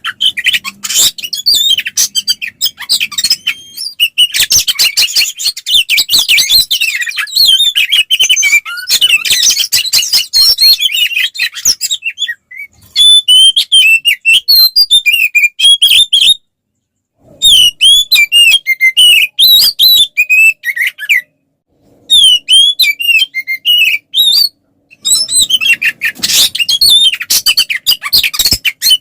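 Oriental magpie-robin (kacer) singing loudly in a fast, unbroken stream of varied chirps, trills and whistles: its aggressive, territorial "fighting" song. It cuts to dead silence three times for a moment in the second half.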